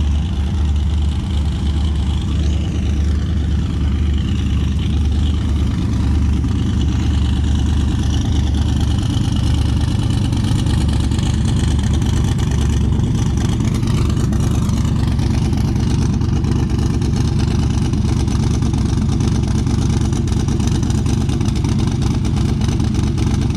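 Car engine running steadily at low speed with a deep rumble. A faint high whistle drifts up and down at times.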